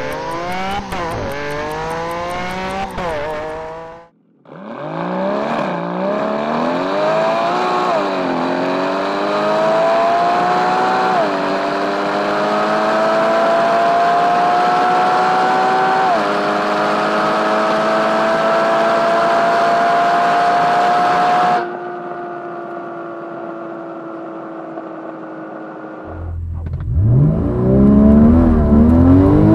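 Porsche Boxster GTS's 3.4-litre flat-six pulling at full throttle through the gears of its seven-speed PDK gearbox. The engine note climbs in pitch and dips sharply at each quick upshift, then rises slowly and stays high in a tall gear. It then drops to a lower steady drone and cuts off, and a fresh full-throttle pull from a standstill begins near the end.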